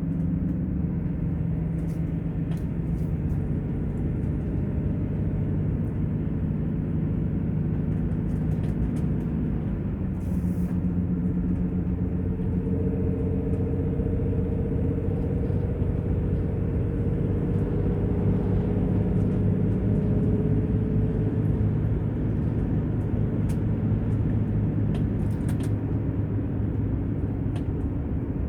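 Engine and road noise of a moving vehicle, heard from inside the cab as a steady low drone. The engine note shifts up and down in pitch as the speed changes.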